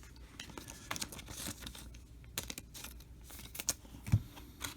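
Trading cards being handled and flipped through one by one, with light, irregular slides and clicks of card stock.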